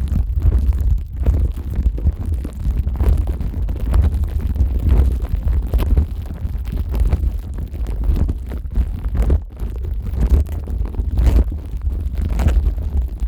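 Plastic wrap stretched over a Neumann KU100 dummy-head microphone's ears, rubbed and pressed by rubber-gloved hands. The result is dense crinkling and rustling with a heavy rumble from the microphone being handled.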